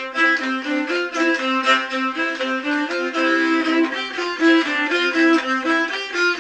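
Fiddle music: a quick tune of short, changing notes played over a steady held drone note.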